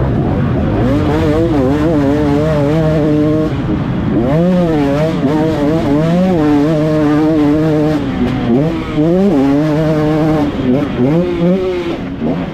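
Motocross bike engine revving hard, its pitch holding steady then swooping up and down several times as the throttle is opened and closed.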